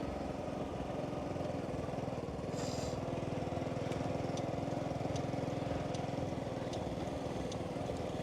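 Small motorbike engine running steadily under way, with a brief hiss about two and a half seconds in.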